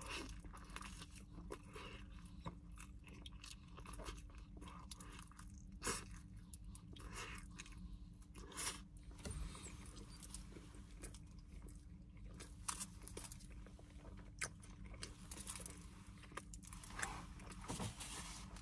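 A person quietly chewing and biting into a burrito, with scattered soft clicks and crackles of eating over a faint steady low hum.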